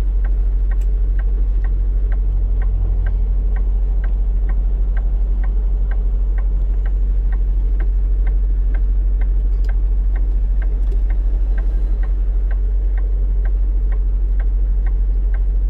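A semi truck's turn-signal flasher clicking steadily, about two to three clicks a second, over the steady low drone of the truck's engine heard inside the cab.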